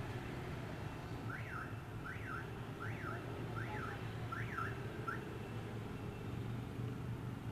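Electronic alarm tone sweeping up and down in pitch five times in quick succession, then stopping, over a steady low rumble of idling traffic.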